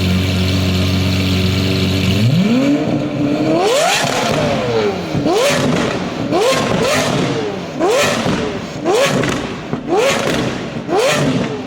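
Lamborghini Aventador SV's naturally aspirated V12, breathing through a Sterling Performance exhaust, idling steadily. About two seconds in it revs up in one long climb, then gives a rapid series of sharp rev blips with loud pops and crackles from the exhaust between them.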